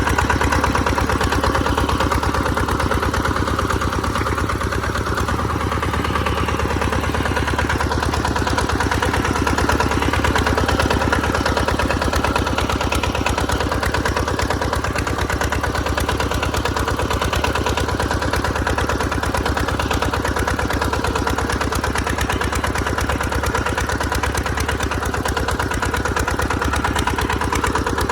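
Tractor engine running steadily, with an even, rapid firing beat.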